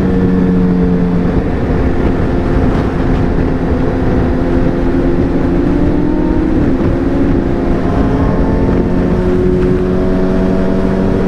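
Motorcycle engine running steadily at road speed, heard from the rider's own bike with wind rushing over the microphone; the engine pitch rises slightly in the last few seconds.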